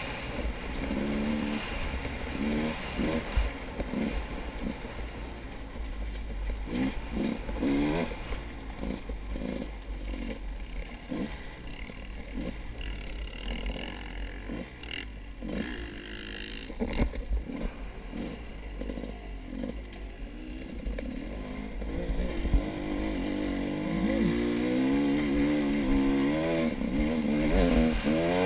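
A motor vehicle engine running, its pitch rising and falling as it speeds up and slows, with rattles and knocks over a low rumble. The engine is clearest over the last few seconds.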